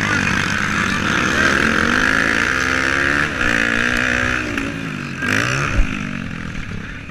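Motocross motorcycle engines revving, their pitch repeatedly rising and falling as the bikes race past, with a brief thump near the end as the sound fades.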